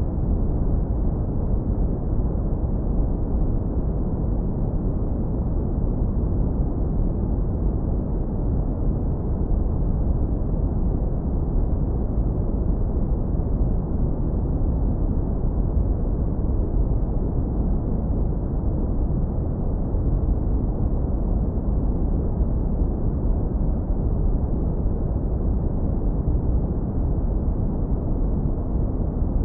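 Steady deep brown noise, heavily low-pass filtered so that only a warm, smooth rumble remains with no hiss on top. It runs unchanged, with no events.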